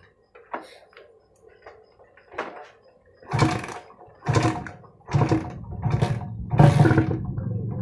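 Kawasaki Ninja R/RR two-stroke single being kick-started, its kickstarter fitted with a new return spring. After a few light clicks come two kicks about a second apart. The engine catches a little past halfway and runs, rising and falling in speed.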